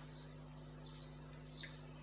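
Faint short bird chirps repeating every half second to a second, one dropping in pitch, over a steady low hum.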